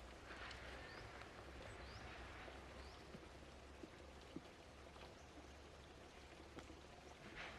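Near silence: faint outdoor ambience with a few faint, short, high rising chirps and a couple of small clicks.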